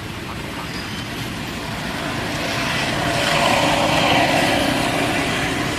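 A motor vehicle passing, its engine and road noise swelling to a peak about three and a half seconds in and then easing off.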